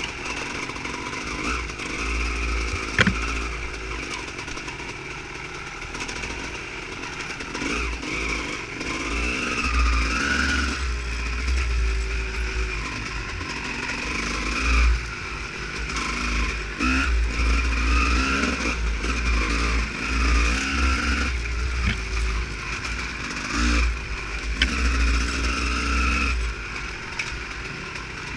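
Honda CR250 two-stroke dirt bike engine running under a varying throttle while riding off-road, its pitch rising and falling again and again, with a few sharp knocks.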